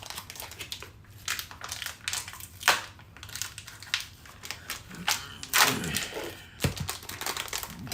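Irregular clicks and knocks of food being prepared by hand, with a rustle near six seconds and a heavier thump about six and a half seconds in.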